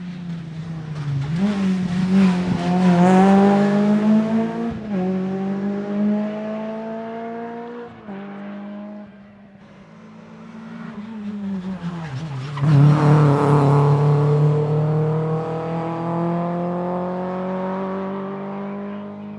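Rally car engine at full throttle, its pitch climbing through the gears with quick upshifts about five and eight seconds in. The pitch falls away for a few seconds, then a second, louder full-throttle pull begins about twelve and a half seconds in and keeps rising.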